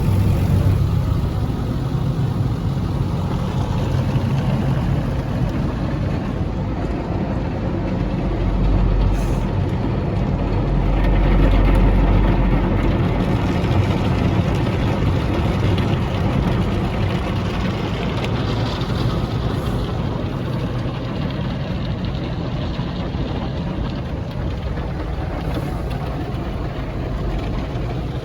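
Car driving along: steady engine and road noise, with the low rumble swelling for a few seconds partway through.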